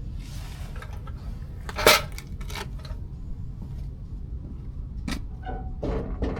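Steel parts clanking and clinking as a steering spindle is handled and fitted onto the front axle, with one loud clank about two seconds in and a few lighter knocks near the end, over a steady low hum.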